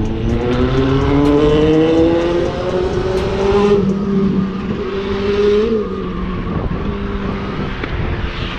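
Motorcycle engine accelerating, its pitch rising steadily for about three and a half seconds, then dropping at an upshift and running at steady revs, with wind noise over the microphone.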